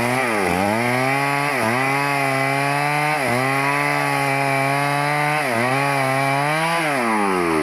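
Stihl chainsaw cutting teak wood at high revs. Its pitch sags each time the chain bites under load and recovers, about five times, then falls away near the end as the throttle is released.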